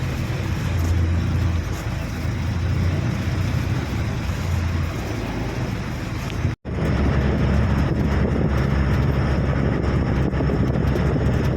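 Bus engine and road noise on the move, a steady low drone, cutting out for an instant about six and a half seconds in before carrying on.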